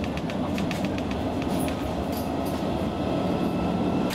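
Roslagsbanan X10p electric train heard from inside the passenger car while running at speed: a steady rumble with a quick run of clicks from the wheels over the track in the first second and a half, a few more midway, and one sharper click at the end.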